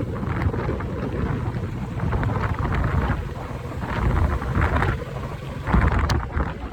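Wind buffeting the microphone on a moving motorbike: a gusty low rumble that swells and eases, strongest about four seconds in and again near the end, over the bike's riding noise.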